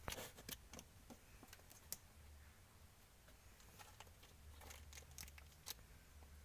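Near silence in a small room: a low steady hum with scattered faint clicks and light rustles, a quick cluster of them at the start and a few more near the end.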